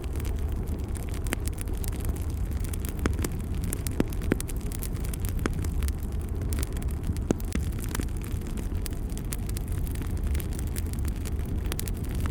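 Fire burning in a fireplace: a steady low roar with frequent crackles and a few sharp pops.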